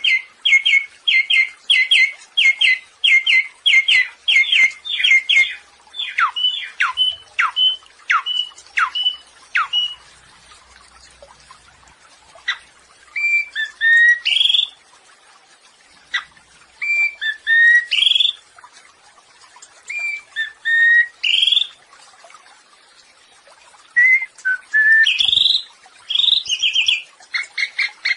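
Samyong songbird singing. It opens with a fast run of repeated two-note chirps, follows with a series of down-slurred whistles, and then gives short warbled phrases every few seconds.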